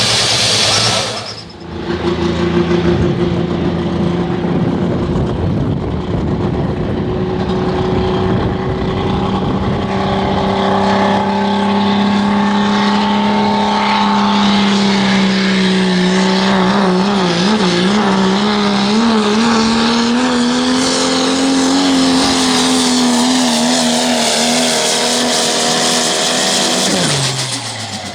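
Pro Stock diesel pickup truck engine held at full throttle, pulling the sled down the track. It makes one long, steady, loud engine note that wavers in pitch from about halfway and creeps higher, then drops away near the end.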